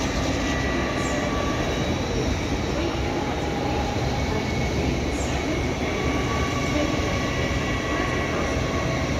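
Two coupled LNER Class 801 Azuma electric trains rolling slowly along the platform with a steady rumble, and thin high squeals from the wheels coming and going over it.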